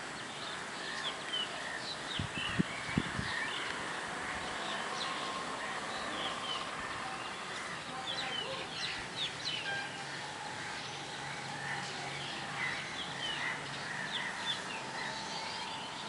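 Small birds chirping in short, scattered calls over a steady outdoor hiss, with two dull thumps close together about two and a half seconds in.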